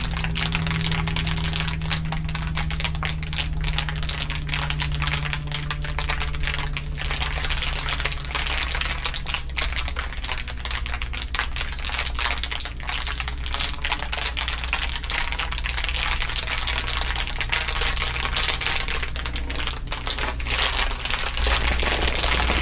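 Layered crinkling: a dense, continuous crackle of many small crinkles over a low steady hum.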